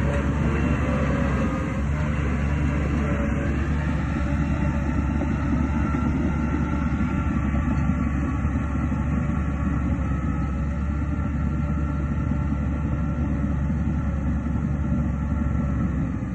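Shantui DH17C2 crawler dozer's diesel engine running steadily under work, a low rumble with faint whining tones over it, easing a little about two seconds in.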